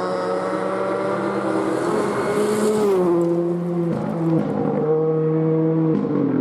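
Rally car engine pulling hard through the gears, its pitch steady and then dropping sharply at each upshift, about three seconds in, again about a second later, and near the end.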